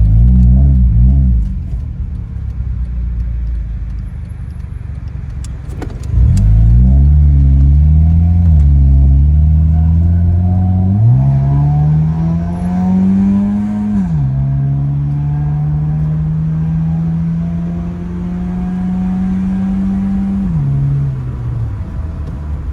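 Honda Civic engine through an aftermarket Spec D exhaust with the silencer removed, running loud. The revs fall off at first, pick up again about six seconds in and climb in steps, drop suddenly around fourteen seconds in, hold at a steady pitch for several seconds, then drop again near the end.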